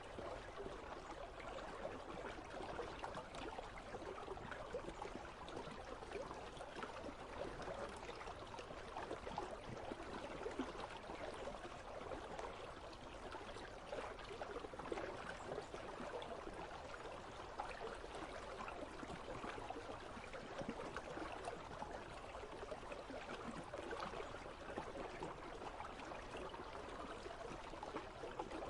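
Icy river flowing, a steady babble and trickle of water that holds even throughout.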